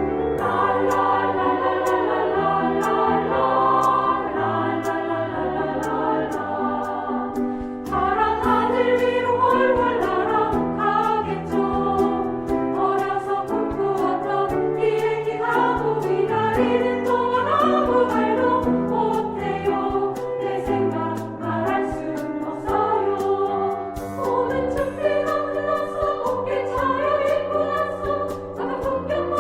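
Women's choir singing with instrumental accompaniment.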